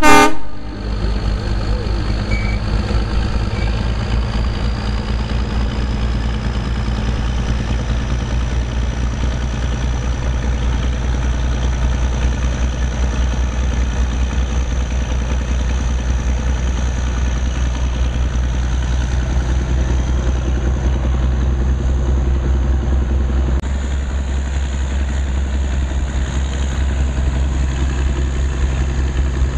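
Narrow-gauge diesel locomotive running steadily as the train rolls, a low engine drone over the rumble of the cars, heard from a passenger car. A horn blast cuts off right at the start, and the engine note eases slightly about three-quarters of the way through.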